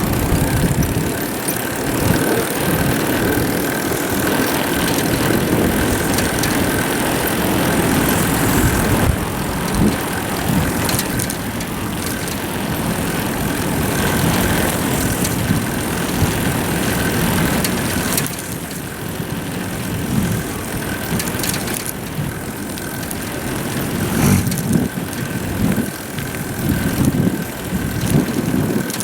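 Wind rushing and buffeting over a GoPro microphone on a moving bicycle, gusting unevenly, with a faint steady high tone under it.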